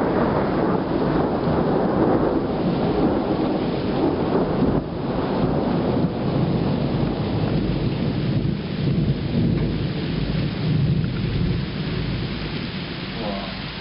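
Thunderstorm: a long, low rolling rumble of thunder that swells and eases, with rain falling steadily underneath.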